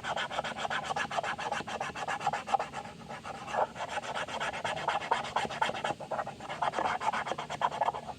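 Paint marker tip scratching rapidly back and forth over the plastic of a toy refrigerator as it is coloured in, many quick strokes each second.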